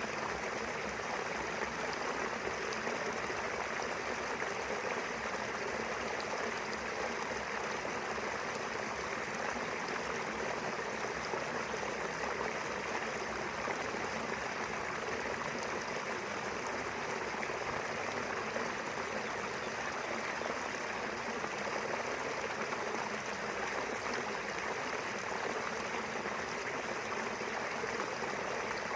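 Small river flowing, a steady even rush of running water.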